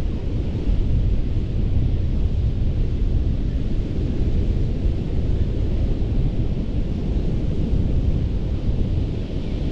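Ocean surf rushing steadily on a sandy beach, with wind rumbling low on the microphone. No single wave crash stands out.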